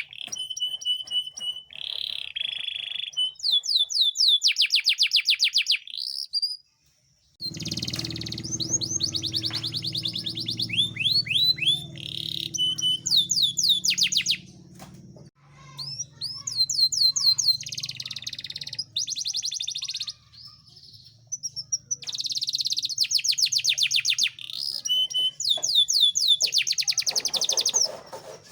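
Male Yorkshire canary singing a long, lively song of fast trills and rolls made of rapidly repeated notes, with a brief pause about seven seconds in. A low hum sits under the song from about seven to fifteen seconds.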